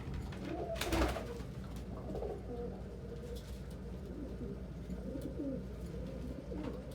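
Domestic pigeons cooing, with repeated low wavering coos, and a brief knock about a second in.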